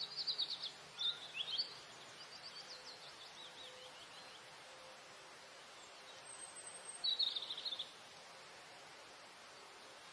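Small songbirds singing: quick, high, repeated-note phrases, loudest at the start and again about seven seconds in, with a fainter falling series of notes between, over a steady background hiss.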